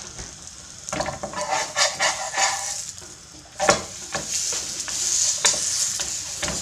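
A beef and cheese quesadilla sizzling steadily in a frying pan as the cheese melts, with a few short sharp knocks, the loudest a little past the middle.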